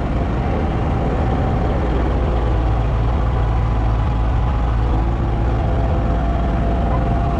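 A motor vehicle's engine running steadily with a continuous low rumble.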